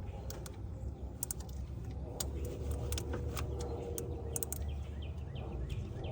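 Scattered light metallic clicks and clinks of hand tools being handled on engine parts, at irregular intervals over a steady low rumble.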